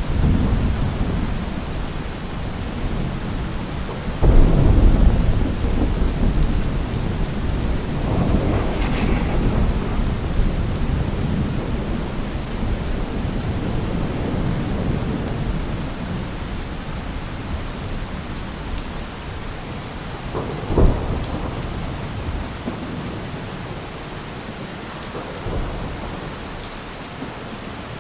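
Thunderstorm: steady rain with rolling thunder. A loud thunderclap about four seconds in rumbles on for several seconds, a short sharp crack comes about two-thirds of the way through, and a fainter rumble follows near the end.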